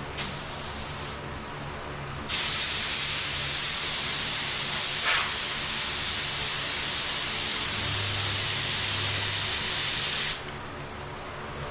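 Compressed-air paint spray gun hissing: a short blast of about a second, then a steady spray lasting about eight seconds that cuts off suddenly.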